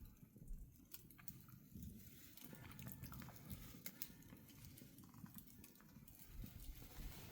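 Faint crackling of a wood campfire, with scattered small pops over a low rumble.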